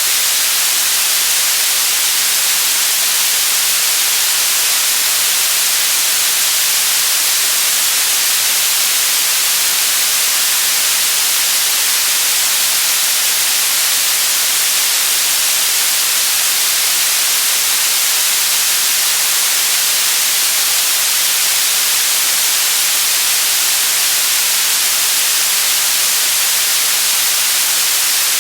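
White noise: a steady, even hiss, brightest in the high frequencies, that never changes.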